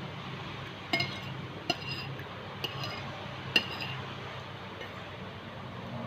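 Metal cutlery clinking against a plate while eating noodles: four sharp clinks, each with a short ring, over a steady low hum.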